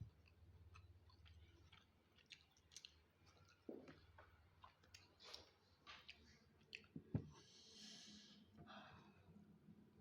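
Faint eating sounds: scattered small mouth clicks of chewing, a sharp knock about seven seconds in, and a short breath just after it.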